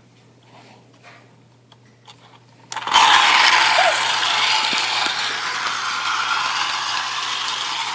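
Battery-powered toy train switched on about three seconds in: its small motor and plastic gears running with a steady, dense clatter.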